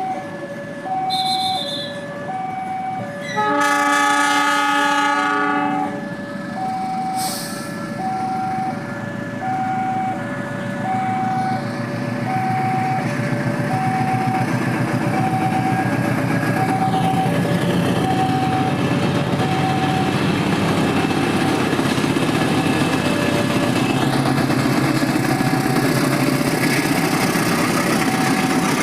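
Railway level-crossing warning alarm sounding as two alternating beep tones. About three and a half seconds in, a locomotive horn sounds a chord for about two and a half seconds. A passing train's rumble then builds and stays loud, covering the alarm from about two-thirds of the way through.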